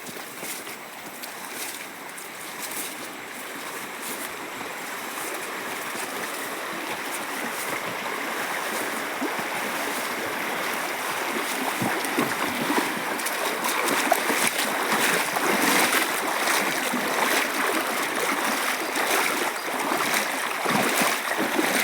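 Running water, a stream rushing over rocks, steadily growing louder, with scattered small splashes or clicks in the second half.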